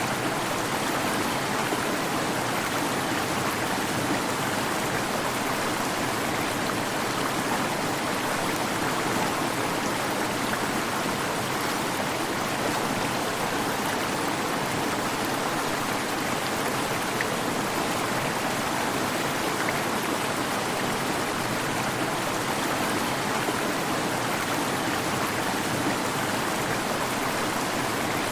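Waterfall: water falling and rushing in a steady, even roar of noise, unchanging throughout.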